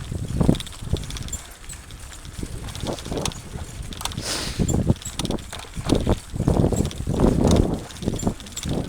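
Mountain bike riding over a rough dirt trail: irregular knocks and rattles from the bike, with wind buffeting the microphone in uneven gusts.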